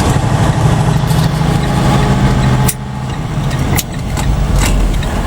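Diesel engine of a semi truck running under way, heard from inside the cab as a steady hum. About halfway through the engine sound drops off suddenly, then builds back up.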